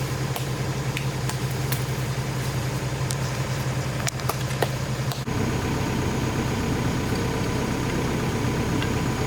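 Excavator's diesel engine running steadily, with a few sharp clicks and knocks over the first five seconds. About five seconds in the engine picks up and runs a little harder.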